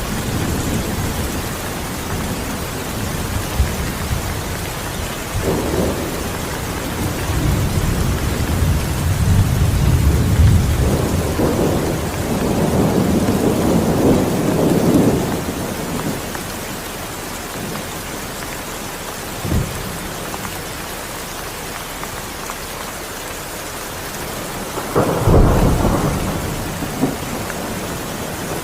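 Steady rain with thunder: a long low rolling rumble through the middle, and a sharper, louder clap near the end.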